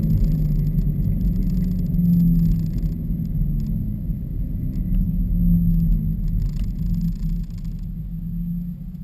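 Exhaust drone from a 2015 Subaru WRX's turbocharged flat-four running through muffler-deleted axleback pipes while the car drives at a fairly steady engine speed. The tone is low and even, easing off slightly near the end, with a few faint rattles.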